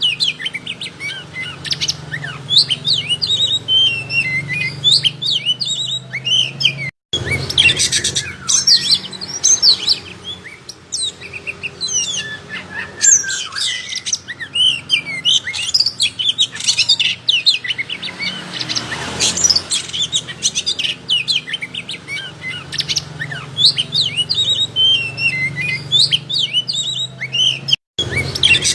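Oriental magpie-robin (kacer) in full song: a rapid, unbroken stream of varied whistles, chirps and trills. The sound cuts out completely for an instant twice, about seven seconds in and again near the end.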